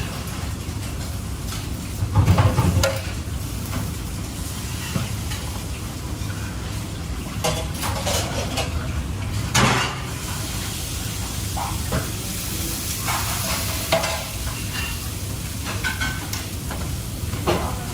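Food frying in a pan with a steady sizzle. A utensil stirs and scrapes against the pan every few seconds, with the loudest knock about two seconds in.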